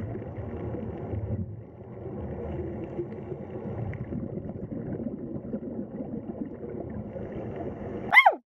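An animal's sound: a low, rough rumbling sound, then one loud, short cry falling in pitch near the end.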